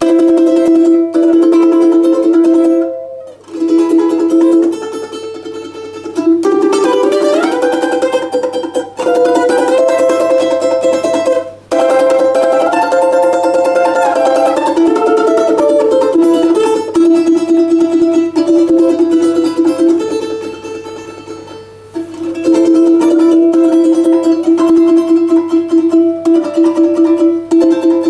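Solo balalaika playing a melody, long notes sustained by rapid tremolo strumming, with a climbing run about a quarter of the way in and a descending run just past the middle.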